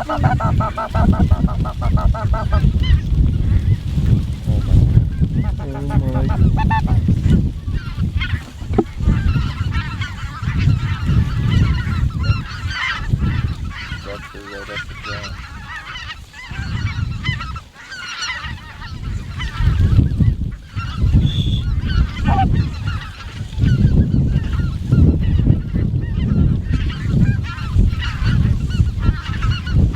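Snow geese calling, a dense chorus of many overlapping honks and yelps, with a rapid run of repeated calls near the start. A steady low rumble lies under it.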